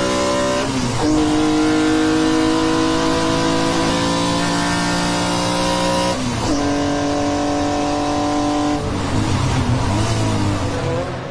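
Race car engine pulling hard at high revs, its pitch climbing steadily and then dropping with upshifts, about a second in and again about six seconds in. It turns rougher and lower near the end.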